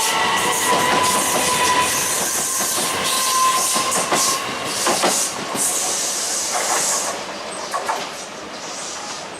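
A train passing close by, its wheels rushing and clattering over rail joints in quick clicks, loud at first and fading away from about seven seconds in.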